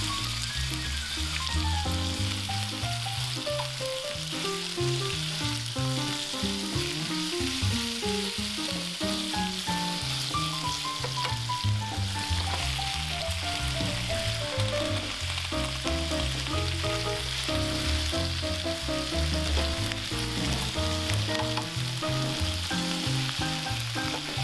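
Thin-sliced pork and komatsuna sizzling as they stir-fry in oil in a frying pan, over backing music with a plucked melody and bass.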